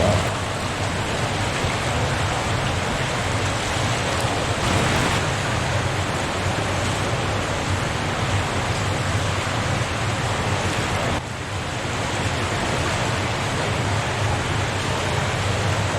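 Steady rush of flowing water echoing inside a long flooded masonry tunnel, the rumbling noise of water heard from deeper in the tunnel.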